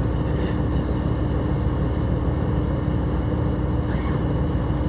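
Steady running noise of a train heard from inside the passenger car: a continuous low rumble of wheels on rail with a steady hum through it.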